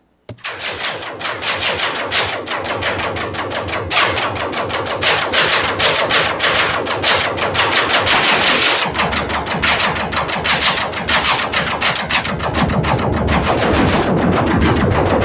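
Eurorack modular synthesizer patch firing a rapid stream of sharp laser-zap pulses through a Make Noise Erbe-Verb reverb. A low rumble joins about nine seconds in.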